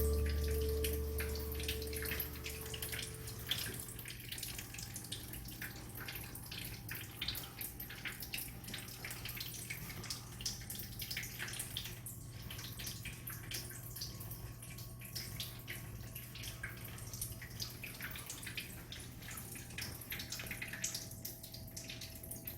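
A ringing, bell-like musical tone fading out over the first few seconds, then faint water sounds: scattered small drips and splashes over a low steady hum.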